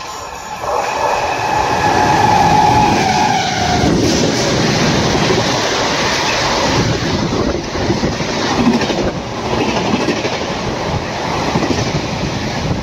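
WAP-7 electric locomotive hauling an express passenger train through a station at speed. A steady horn blast of about three seconds dips slightly in pitch near its end as the locomotive passes. Then the coaches rush by with a continuous loud rumble and clatter of wheels on the rails.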